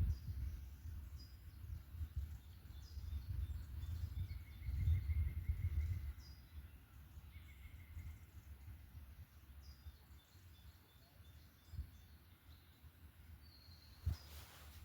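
Several birds calling in a forest: short high chirps scattered throughout and two quick trills in the middle, over an uneven low rumble that is the loudest sound. A single sharp click near the end.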